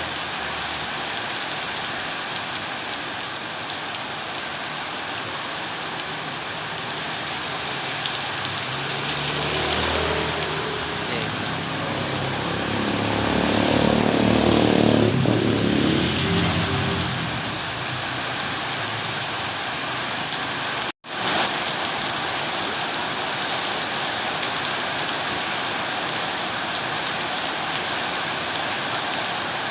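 Steady rain falling, an even hiss of drops on surfaces. About halfway through, a louder low rumble swells and fades over a few seconds. Two-thirds of the way in, the sound cuts out for an instant.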